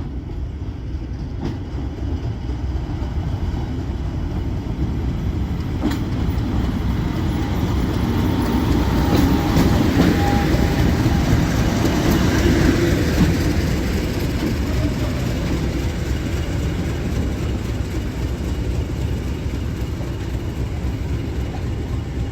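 Heritage diesel train running past, its engine rumble growing louder to a peak about halfway through and then slowly fading, with a few faint clicks from the wheels on the rails.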